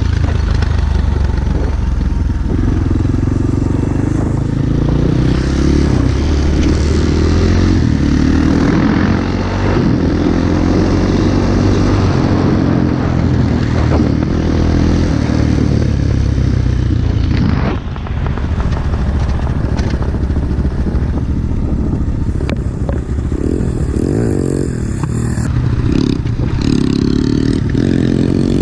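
Pit bike engine running under way on a rough dirt track, its pitch rising and falling with the throttle. There is a brief drop about two-thirds of the way through, as when the throttle is closed or a gear is shifted.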